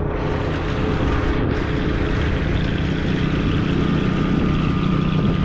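Tractor engine running steadily at a constant speed, a loud even hum.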